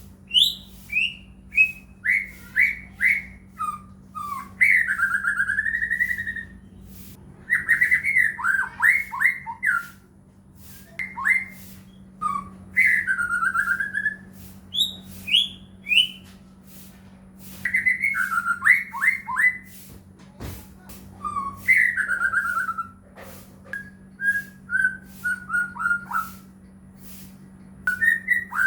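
White-rumped shama (murai batu) singing: loud whistled phrases with swooping notes and rapid runs of falling notes, coming in bursts every couple of seconds with short pauses between. Sharp clicks and a steady low hum run beneath the song.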